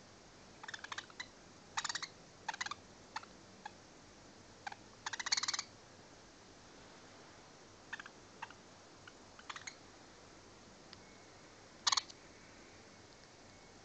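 Budgerigars giving short chirps and squawks in scattered bursts. They are busiest over the first six seconds, with a few more later and one loud chirp near the end.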